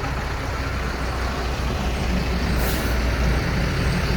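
Heavy fire truck engine running low and steady as the truck rolls slowly past, with a short hiss of air brakes about two and a half seconds in.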